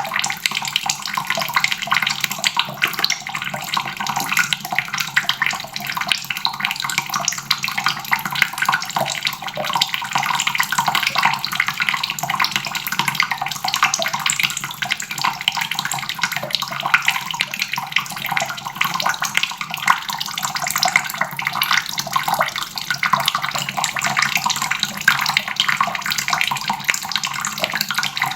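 Water tap running steadily, a constant stream splashing into a basin.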